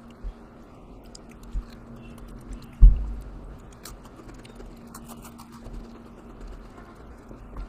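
A person chewing crunchy Oreo cookies, with faint crisp crunching clicks and a few low thumps, the loudest about three seconds in.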